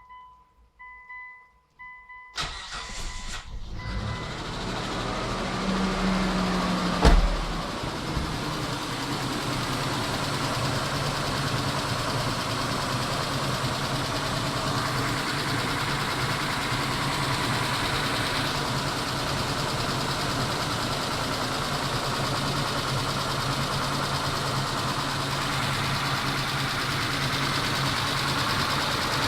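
Mitsubishi 6G72 3.0-litre V6 cold-started: a few short warning chimes, then the starter cranks and the engine catches about two seconds in. It revs up briefly and settles into a steady fast idle. The engine is running on a fresh dose of hydraulic-lifter additive and is being checked for lifter tapping. A single loud thump comes about seven seconds in.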